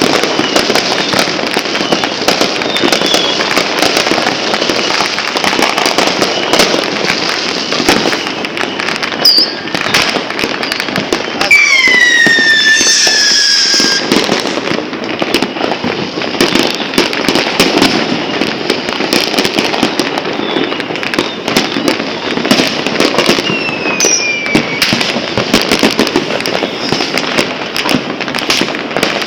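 Fireworks and firecrackers going off continuously in a dense stream of crackles and bangs. About twelve seconds in, a loud whistling firework glides down in pitch for a couple of seconds, and a shorter falling whistle follows near twenty-four seconds.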